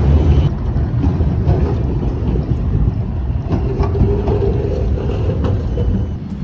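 Steady low rumble of a tram in motion, with a few faint knocks and a faint whine held for a couple of seconds midway.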